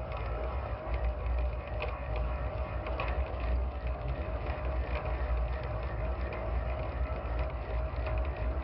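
Cannon Mag 20 electric downrigger winding in, a steady motor whine with ratcheting clicks over a constant low rumble.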